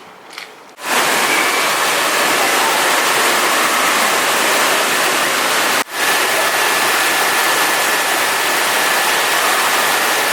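Loud, steady rushing noise that starts about a second in, breaks off for an instant near the middle and carries on.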